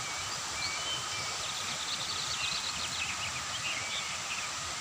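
Birds chirping and twittering in short high calls over a steady hiss of forest ambience.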